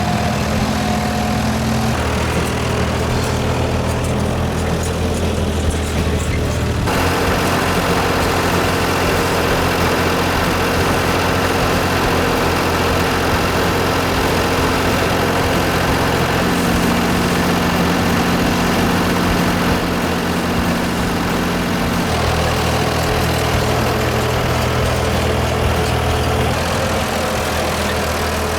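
Farm tractor engine running steadily while it pulls a hay rake through leaves. The sound grows fuller and noisier about seven seconds in and settles back near twenty-two seconds in.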